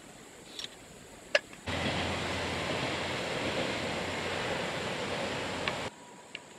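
A sharp click, then a steady rushing hiss that starts suddenly about a second later and cuts off abruptly after about four seconds.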